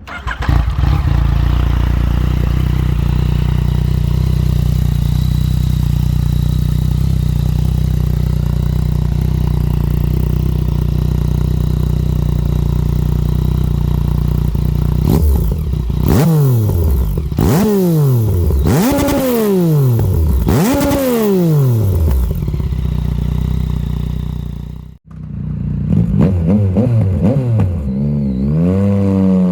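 2020 Yamaha MT-09's 847 cc inline-three running through a full Arrow exhaust system: a steady idle, then four quick throttle blips that rise and fall sharply, back to idle, and a run of shorter, faster revs near the end.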